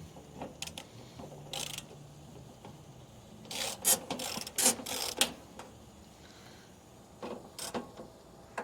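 Socket ratchet clicking in short spells as the bolts on an air conditioner's metal access plate are loosened, busiest a few seconds in, with scattered knocks of tool on panel.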